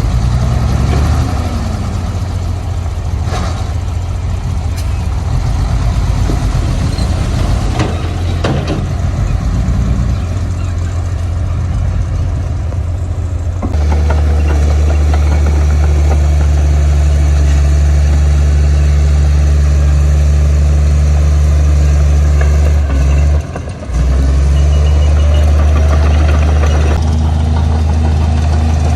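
Heavy diesel earthmoving machinery running, with a few sharp metal knocks in the first half. About halfway through it changes abruptly to a steady low diesel drone, which dips briefly about three-quarters of the way in.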